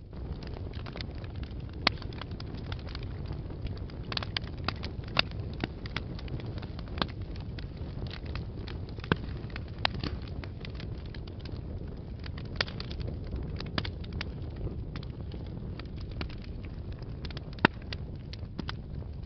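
Wood fire burning in a fireplace: a steady low rush of flames with irregular sharp crackles and pops from the burning logs, a few louder pops standing out.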